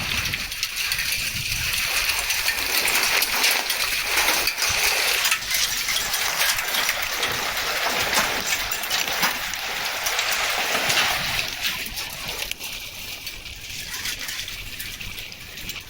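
Hail falling with a heavy downpour: a dense clatter of small sharp hailstone clicks over a steady rushing hiss, easing a little after about twelve seconds.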